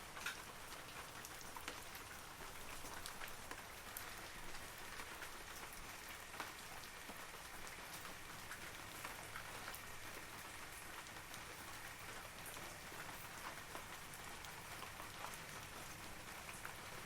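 Steady rain falling on forest trees: a soft, even hiss with many individual drops ticking distinctly throughout.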